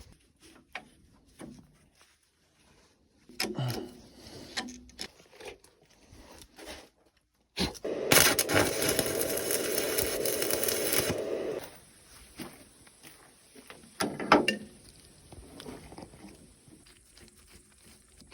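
Workshop work sounds: scattered light knocks and scraping, with a small motor running steadily for about four seconds midway, then stopping.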